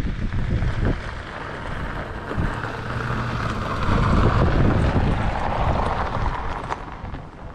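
Wind buffeting the microphone over the rumble of a passing diesel tilt train. The train noise swells to its loudest about four seconds in and falls away near the end.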